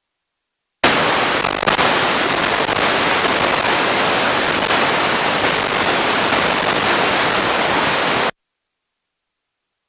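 Loud, even static hiss like white noise, starting abruptly about a second in and cutting off suddenly about eight seconds in.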